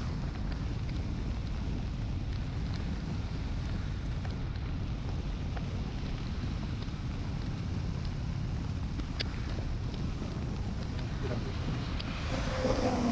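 Wind buffeting the microphone over the steady low rumble of a Honda Shadow 750's V-twin engine cruising in the rain, with occasional faint ticks of raindrops hitting the camera. A brief louder swell comes near the end.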